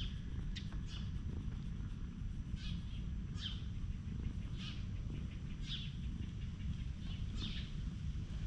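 A bird calling repeatedly with short high notes, about one a second, over a steady low rumble.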